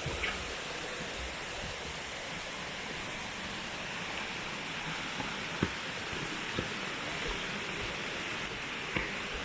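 Steady rush of water cascading over a waterfall, with a few light knocks about halfway through and near the end.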